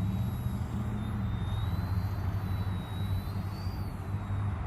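Eachine E110 mini RC helicopter's motor whining in flight as a thin high tone, wavering in pitch and rising briefly near the end, over a steady low rumble.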